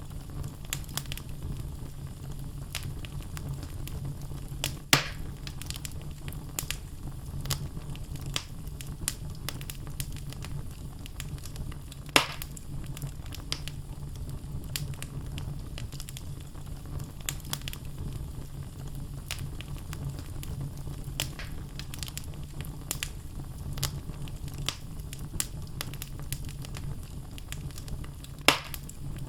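Wood logs burning in a fireplace, crackling with frequent small snaps over a steady low rumble. Three louder pops stand out: about five seconds in, about twelve seconds in, and near the end.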